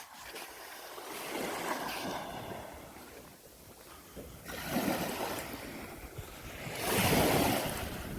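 Sea waves washing in on a sandy beach, the wash swelling and falling back three times, loudest near the end, with wind buffeting the microphone.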